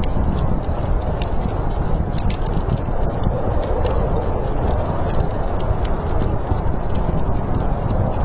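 Wood fire crackling, with frequent sharp irregular pops and snaps over a steady low rumble of storm wind.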